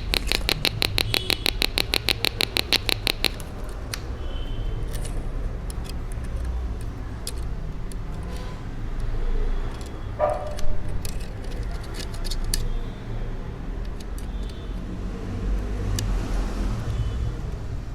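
Speaker on a two-transistor (NPN/PNP) capacitor oscillator ticking rapidly and evenly, about nine clicks a second, then cutting off abruptly about three seconds in. The ticking stops because the PNP collector has been taken off the speaker and tied to the sink, so the speaker no longer gets power. After that there are only a few scattered small clicks over a low hum.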